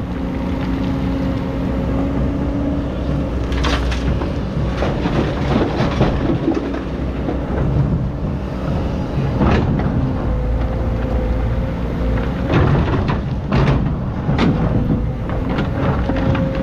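Excavator's diesel engine running steadily under load, with scattered clanks and clatter as the bucket works through sand and stones.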